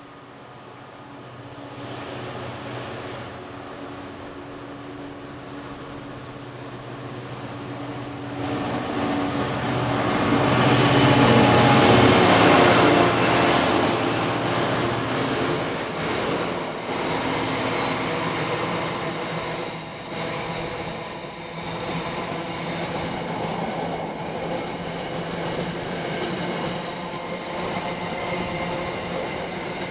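Freightliner Class 66 diesel locomotive hauling a container freight train past: its two-stroke V12 diesel engine drones as it approaches and is loudest as it passes about twelve seconds in. The rumble and clatter of container wagons rolling by follows.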